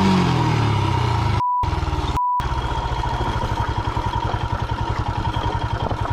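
Motorcycle engine running: a rev falls away at the start, then it settles into an even, lumpy idle beat. Two short pure-tone censor bleeps cut in about a second and a half and two seconds in.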